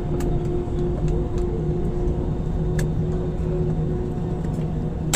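Airliner cabin noise on the ground just after landing: a steady low engine rumble with a constant hum running through it, and a few faint clicks.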